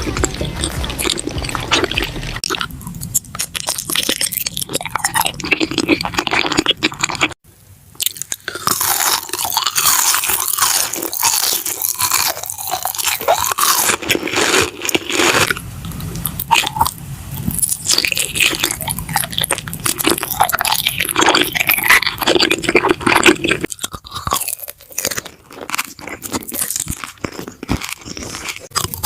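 Close-miked eating: crunchy bites and chewing, a dense run of crackles with a brief pause about seven seconds in.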